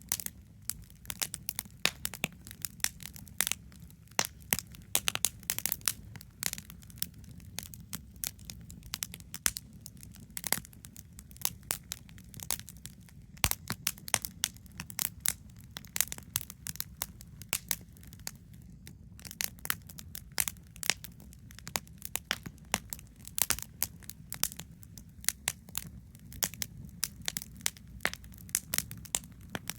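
Wood campfire crackling: irregular sharp pops and snaps from the burning wood, sometimes several a second, over a steady low rumble.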